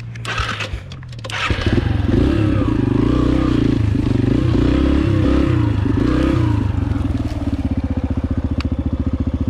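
A dirt bike's four-stroke single-cylinder engine revving up and down close by for several seconds, then dropping to a steady idle. A short scraping clatter comes just before the engine picks up.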